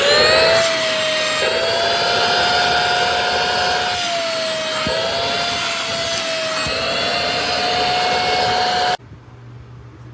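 Intercleaner corded stick vacuum cleaner's 400 W motor switched on. It spins up with a rising whine, runs loud and steady with small dips in pitch, and cuts off abruptly about nine seconds in.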